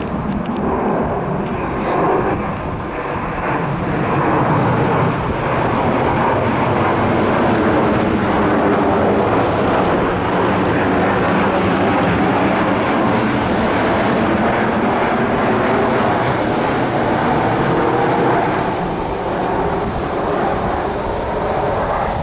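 Boeing 737 airliner's jet engines: loud, steady jet noise that holds throughout, with faint tones drifting slightly in pitch.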